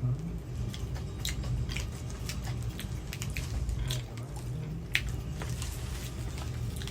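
A person chewing and biting food close to the microphone: wet mouth smacks and small clicks, with one sharper click about five seconds in.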